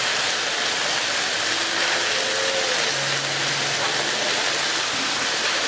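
Raw chicken pieces sizzling in olive oil on a hot Blackstone flat-top griddle, a steady hiss.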